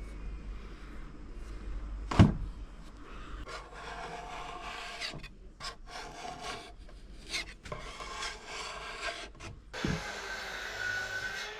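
Scraper blade dragged over a wooden dresser surface, spreading and scraping off wood-filler paste in short repeated strokes, with one sharp knock about two seconds in.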